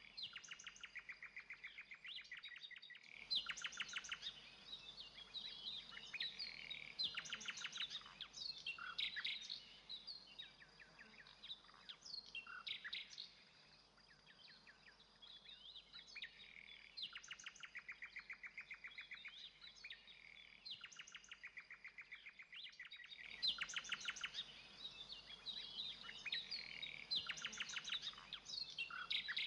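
Songbirds singing: a dense chorus of rapid chirps and trills, with short bursts of repeated notes.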